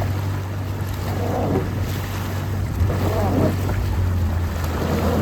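A boat's engine running with a steady low hum, alongside wind on the microphone and water sloshing at irregular intervals.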